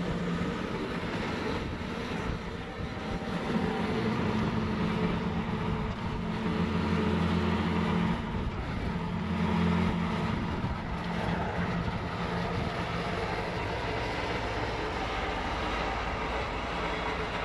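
Bobcat T66 compact track loader's diesel engine running steadily at working speed while powering its snowblower attachment. The engine note shifts a little in pitch and loudness every few seconds as the load changes.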